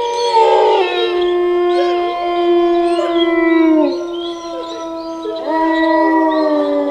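Wolves howling in chorus: several long, overlapping howls held at steady pitches. One slides down and fades about four seconds in, and new howls rise in about a second and a half later.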